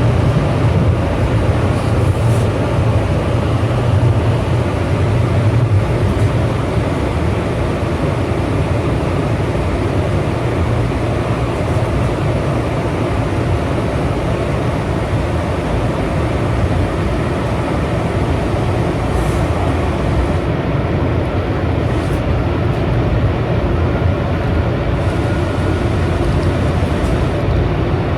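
Calgary C-Train light-rail car running along the track, a steady low rumble of wheels and drive heard from inside the car, with a few brief sharp clicks now and then.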